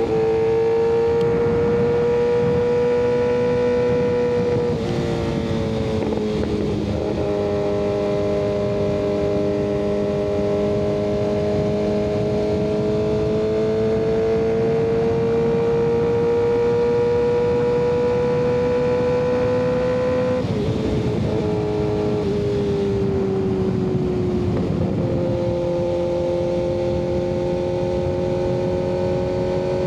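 Kawasaki ZX-6R 636's inline-four engine, fitted with an M4 aftermarket exhaust, heard from the rider's seat while cruising. The engine note holds steady and climbs slowly, dropping in pitch a few times: about 5 and 7 seconds in, and again around 21 and 25 seconds.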